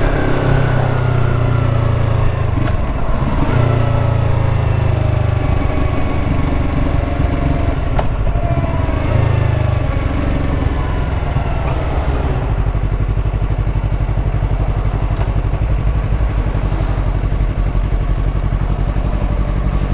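Yamaha R3 motorcycle's parallel-twin engine under way in traffic. Its pitch falls in several long glides over the first twelve seconds or so, then it runs steadier.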